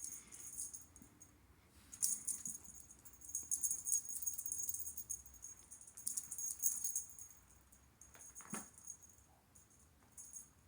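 Jingling rattle of a small toy being batted about by playing kittens, in irregular bursts, busiest from about two to seven seconds in.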